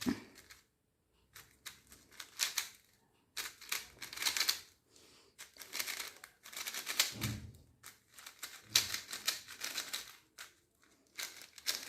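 QiYi XMD Tornado V3 magnetic 3x3 speed cube being turned fast during a solve, still carrying its factory lubricant. Bursts of rapid plastic clicking and clacking, with short pauses between the bursts.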